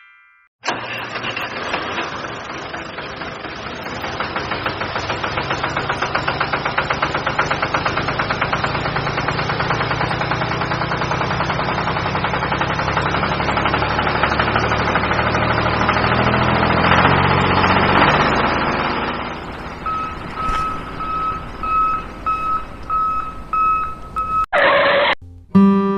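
Engine starting up suddenly and running with a fast, even beat. From about twenty seconds in, a beeping tone repeats on and off, and near the end there is a short loud burst.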